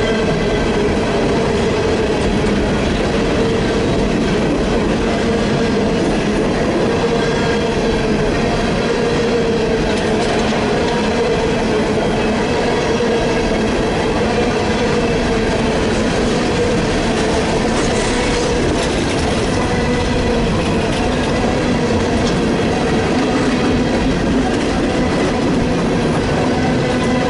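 Freight train rolling steadily past at close range, with rail noise and a steady whining tone from the wheels and cars throughout.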